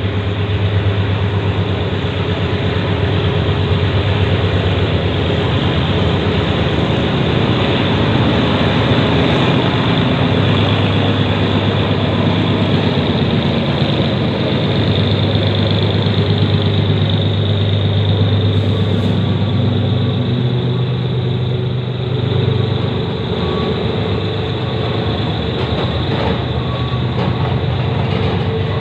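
Diesel locomotive engine running with a steady low drone as a freight train pulls out.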